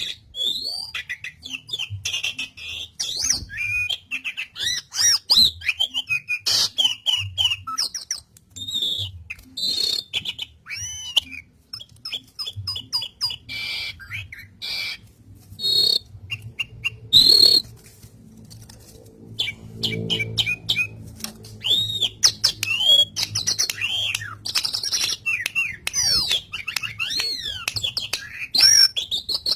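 Asian pied starling (jalak suren) singing energetically: a rapid, varied stream of chirps, rising and falling whistles and harsh squawky notes, with a short lull about two-thirds of the way through.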